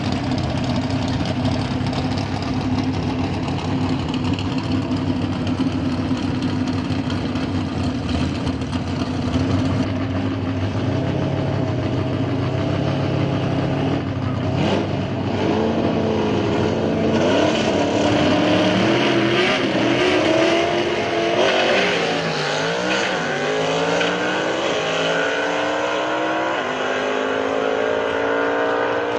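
Old Ford F-100 pickup truck engine running steadily at first. From about ten seconds in it revs up and down several times, and near the end its pitch climbs in long rises as it accelerates.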